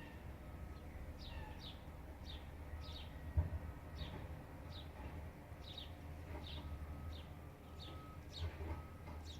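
A small bird chirping over and over: short, high chirps that drop in pitch, about one and a half a second. Two low thumps, the louder about a third of the way in and another near the end, over a steady low hum.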